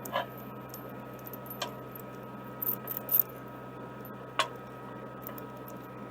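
Excavator running steadily with a constant hum, while the chain hooked to the iron rod gives several sharp metallic clinks under strain as the machine tries to pull it out.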